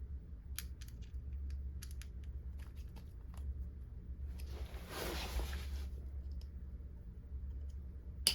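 Small parts of a carburetor being handled and fitted, giving scattered light clicks and taps, with a brief rustling hiss about halfway through and a sharper click near the end, over a steady low hum.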